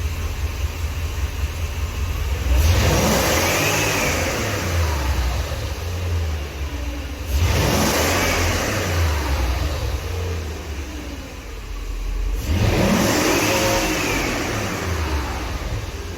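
BMW M60B40 4.0-litre V8 idling with a deep rumble through the exhaust. It is revved three times, about five seconds apart, and each time the engine speed rises quickly and then falls back to idle.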